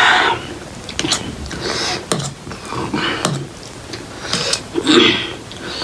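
Close-up eating sounds of instant ramen noodles: a string of short slurps and chewing clicks.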